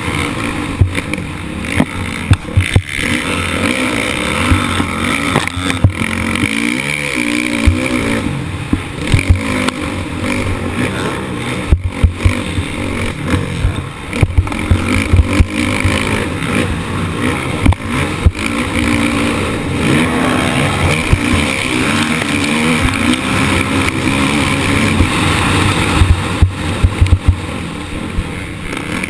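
Motocross bike engine revving up and down as it races, heard from a GoPro mounted on the bike or rider, with frequent sharp knocks throughout.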